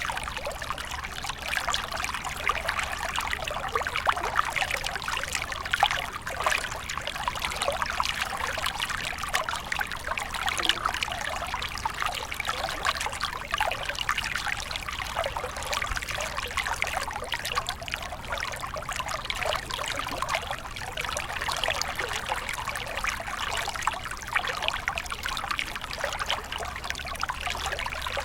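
Stream water flowing and trickling steadily, a dense patter of many small splashes over rocks.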